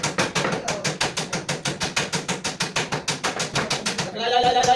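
Rapid, even hammer tapping at about eight or nine blows a second, typical of a small hammer working decorative steel trim for truck art. About four seconds in, a steady pitched tone, like a horn, joins it.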